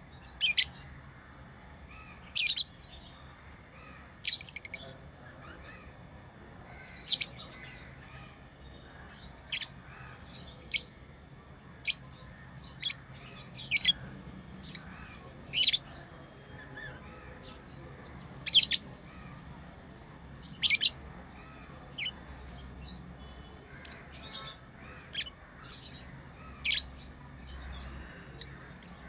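Pet lovebirds chirping: short, sharp, high-pitched calls at irregular intervals, one every second or two.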